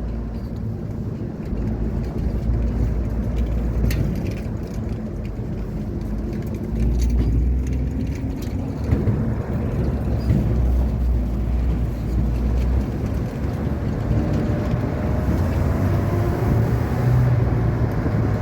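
A car driving, with steady engine and road rumble; the engine note rises slowly near the end.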